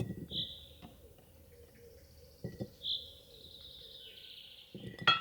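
Birds calling in short, high whistled notes, one about half a second in and another near three seconds that trails away. Under them come a few dull knocks, and a sharp, loud knock near the end.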